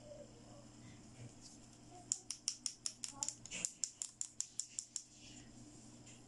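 Small plastic toy parts clicking in a quick, even run of about six sharp clicks a second, starting about two seconds in and stopping about three seconds later, as hands handle a pink plastic toy stethoscope.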